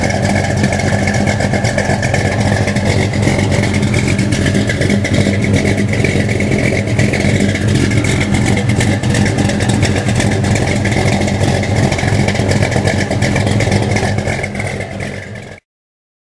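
1970 Chevelle SS 396's mildly built big-block V8 running steadily at idle with an exhaust rumble. The sound cuts off suddenly near the end.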